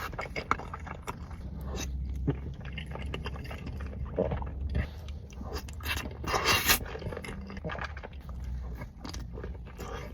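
Close-up eating of boxed mac and cheese: a utensil scraping the bowl, with soft chewing and small wet clicks. A brief louder noise comes about six seconds in.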